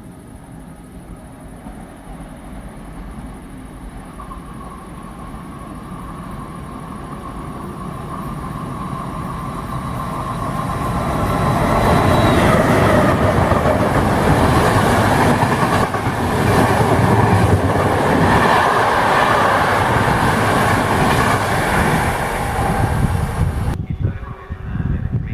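A train approaching and passing close, growing steadily louder over about twelve seconds and then staying loud as it goes by. The sound cuts off abruptly near the end.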